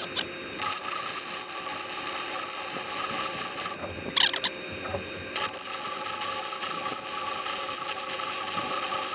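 Wire-feed welder arc running gasless flux-cored wire, crackling in two weld runs of about three and four seconds with a short pause between. The right wire is now penetrating well.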